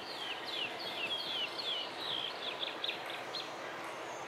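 A bird singing a run of about a dozen high, falling whistled notes, the later ones shorter and quicker, ending a little before the close, over a steady background hiss.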